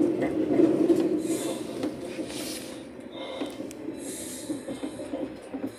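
Electric commuter train running, heard from inside the carriage: a steady low rumble that gradually fades as the train slows, with a few short hisses.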